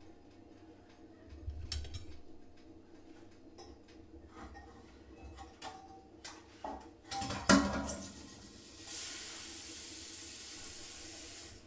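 Kitchen sounds: scattered light clinks and knocks of dishes and utensils, with a louder clatter about seven seconds in. A steady hiss follows for about two and a half seconds and cuts off near the end.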